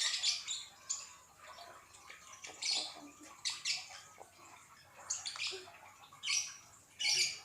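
Plastic slime packaging being handled before opening: a series of short crinkling rustles, about seven in all.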